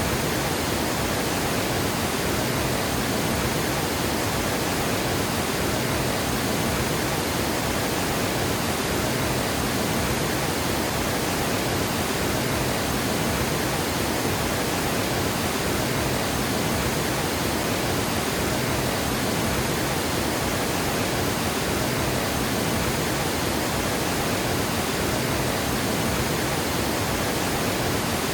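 Water pouring over a river dam, a steady, dense rushing that does not change.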